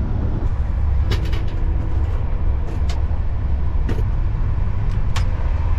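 Steady low rumble of a moving passenger train heard from inside an AC coach, with a few sharp clicks and clatters over it.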